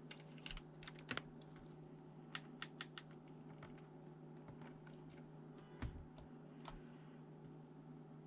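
Sparse, irregular light clicks and taps from hands working on a ThinkPad T400 laptop, over a steady low hum.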